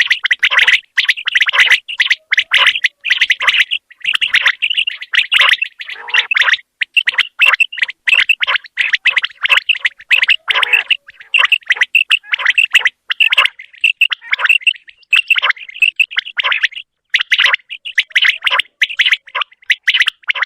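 Common quail calling: a rapid series of short, high notes, several a second, broken by a few brief pauses.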